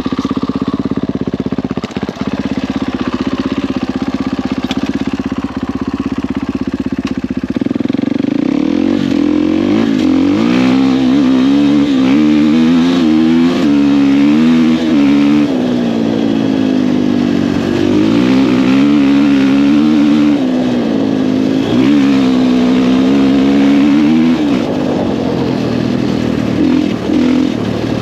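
Husqvarna FE450 single-cylinder four-stroke dirt bike engine, breathing through an FMF 4.1 exhaust. It runs at a steady low speed for about seven seconds, then the revs climb and drop again and again.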